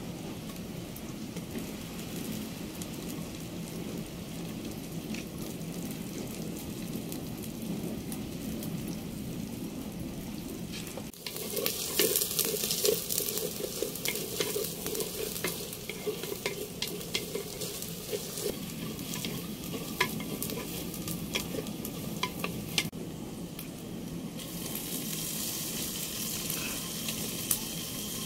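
Food frying and sizzling in oil in a clay pot over a wood fire, quieter at first, then louder from about eleven seconds in as a wooden ladle stirs it, with sharp clicks and scrapes against the pot. Near the end a steady rushing hiss sets in as water is poured into the pot.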